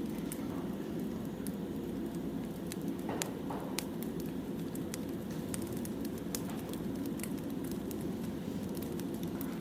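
Firewood burning, crackling: a steady low rush with frequent sharp pops and snaps scattered through, one louder pop about three seconds in.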